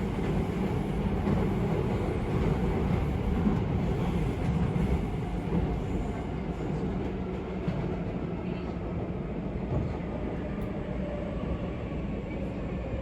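Steady low rumble of a vehicle in motion, continuous throughout.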